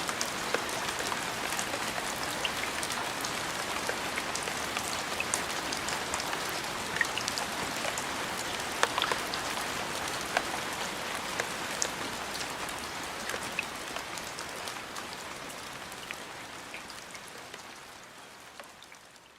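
Steady rain falling on a surface, with distinct individual drops ticking through the hiss. It slowly fades out over the last few seconds.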